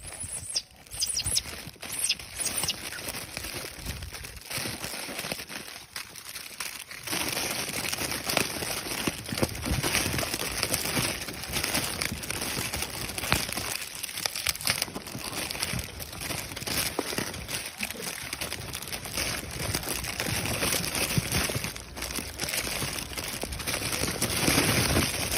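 Continuous crinkling and crackling with many small clicks, louder from about seven seconds in.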